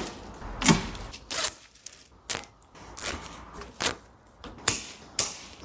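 Nylon cable ties being pulled tight around hydraulic hoses: a string of short zipping, ratcheting sounds at irregular intervals.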